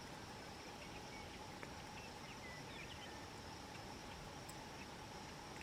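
Open-country ambience: a faint, steady insect drone with short, scattered bird chirps over a low background rush.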